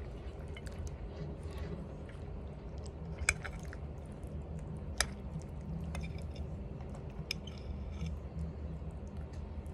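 A person chewing and smacking on pig's feet, with small wet mouth ticks and two sharp clicks, about three and five seconds in.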